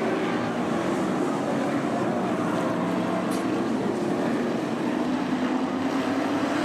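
Engines of a field of stock-bodied race trucks running together in a steady, unbroken drone.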